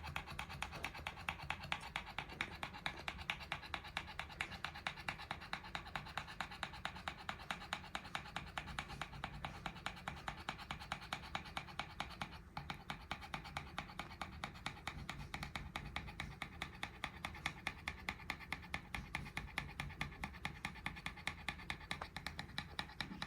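Pekingese dog panting hard after a walk, an even, rhythmic breathing at about three to four breaths a second that sounds like a motorbike engine idling.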